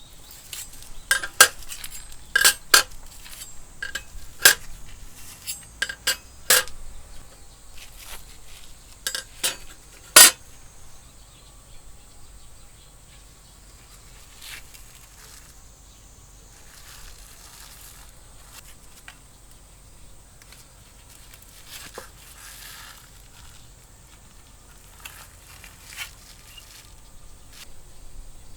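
A string of sharp clicks and clinks, metal-like, for about ten seconds, the loudest near the end of the run. Then a faint steady chirring of insects with an occasional soft tick.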